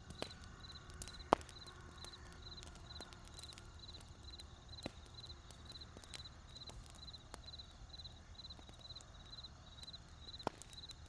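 Campfire wood burning, crackling with scattered sharp pops, one loud pop about a second in, over a low steady rumble. A high chirping repeats about twice a second throughout.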